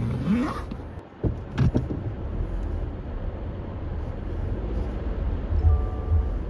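Low, steady rumble of a car heard from inside the cabin, with a few knocks about a second and a half in. A few steady tones begin near the end.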